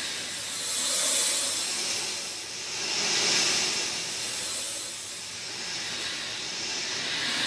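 Rain falling steadily, a dense hiss that swells and eases every couple of seconds.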